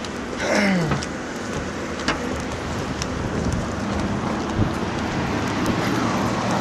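Road traffic: a steady noise of cars and tyres on the road, with a short squeal falling in pitch about half a second in and a few light clicks.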